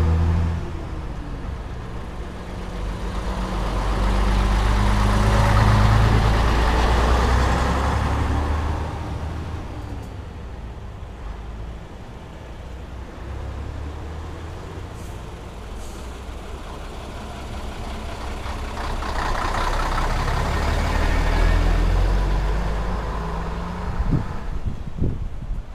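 Diesel engines of vintage Scania-Vabis bonneted trucks running, their low drone swelling and fading twice with shifting engine pitch. A few short knocks come near the end.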